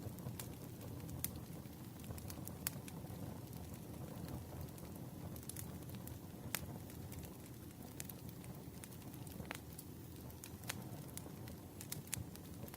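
Campfire crackling: a steady low rush of burning wood with sharp pops and snaps at irregular intervals.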